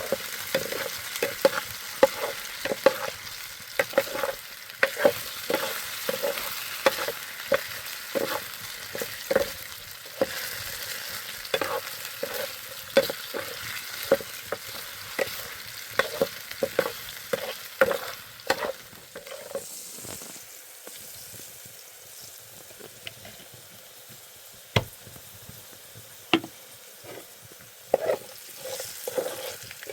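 Irregular sharp clicks and knocks, several a second, over a steady hiss. They thin out for a few seconds past the middle and come thick again near the end.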